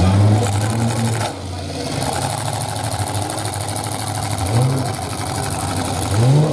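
Several stock trucks' engines running hard in a demolition derby, revving over a mass of mechanical noise; one engine revs up sharply near the end.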